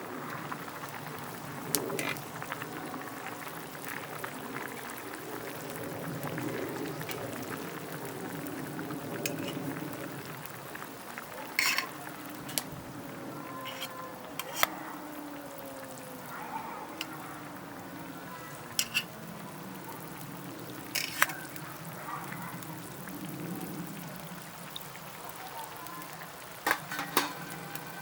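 Food frying and sizzling in a pan over a wood campfire, with a few sharp clicks along the way.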